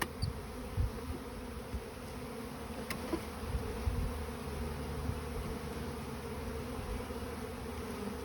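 A honeybee swarm buzzing in a steady, continuous drone as the bees gather on and around the hive box, with a few faint low bumps.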